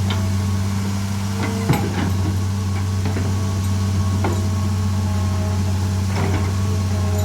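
Excavator's diesel engine idling steadily, with about five short sharp knocks scattered through it.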